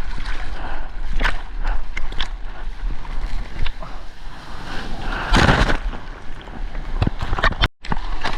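Water rushing and splashing, with wind buffeting an action camera's microphone during a surf ride. Several sharp splashes come through, the loudest about five and a half seconds in, and the sound cuts out for a moment near the end.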